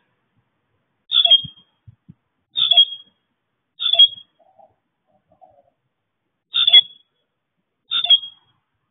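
A bird calling five times in short, sharp calls one to three seconds apart, each a high note that drops slightly in pitch.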